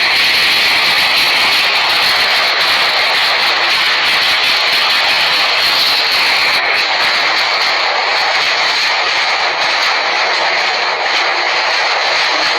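Heavy hailstorm: a loud, steady roar of hailstones pelting down, with many sharp clicks of single stones striking. The highest hiss drops away about halfway through.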